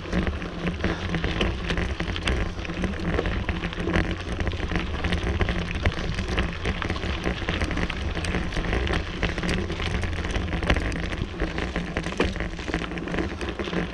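Bicycle ride noise picked up by a camera carried on the rider: wind rumbling on the microphone under a dense, continuous crackle and rattle of the bike rolling over the trail.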